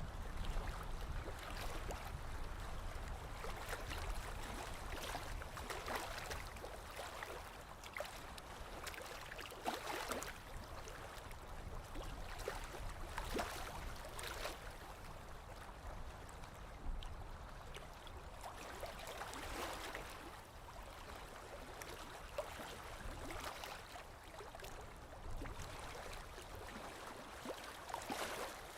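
Small waves lapping on a lake shore: a steady soft wash broken by irregular gentle splashes every few seconds.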